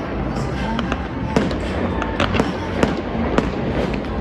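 Fireworks show: about seven sharp bangs of shells bursting at uneven intervals, over steady music.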